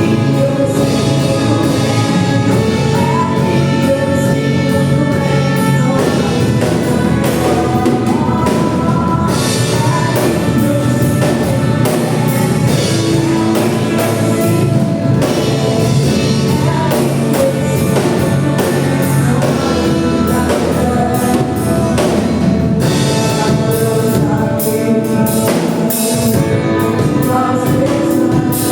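Gospel worship song: voices singing over a band with a drum kit, at a steady loud level.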